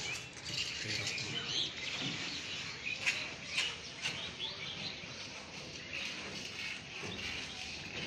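Birds chirping: short, high calls scattered through, over a faint background hiss.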